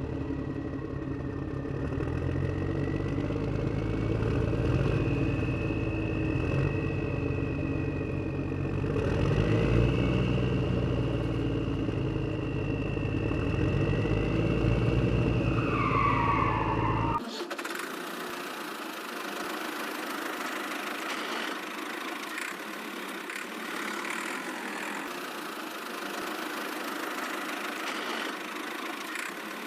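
Vehicle engine sound, a steady low rumble with a high whine above it. About seventeen seconds in it cuts abruptly to a thinner, hissier engine-like sound with no low rumble.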